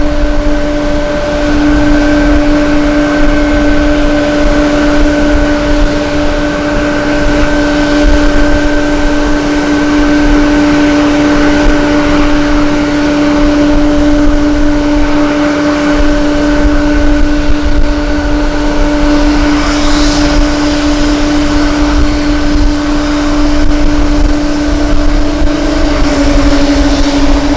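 A steady mechanical hum at a few fixed pitches that dips slightly near the end, over a constant rush and low wind rumble on the microphone.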